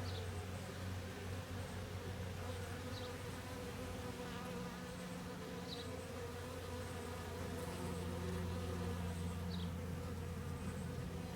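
Honey bees buzzing in a steady drone as many fly around an opened hive, drawn in by a swarm lure. A few faint short chirps sound now and then.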